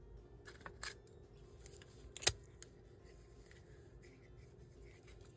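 Craft supplies being handled on a desk: a few short, sharp clicks and snips, the loudest about two seconds in.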